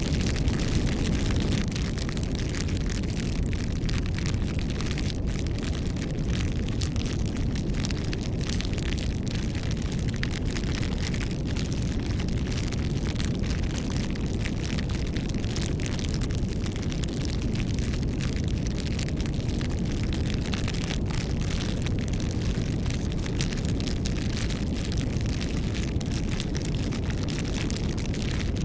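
Bonfire burning: dense, continuous crackling and small pops over a steady low rumble of the flames.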